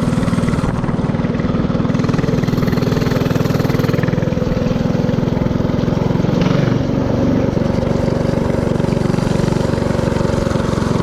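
Mini-bike's Predator 224cc single-cylinder four-stroke engine running steadily at a fairly constant speed while the bike is ridden.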